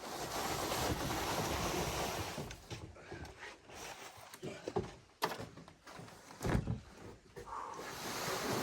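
A window sliding in its frame or opening: a rough scraping rush for the first couple of seconds, then several wooden knocks and thuds, the loudest about five and six and a half seconds in.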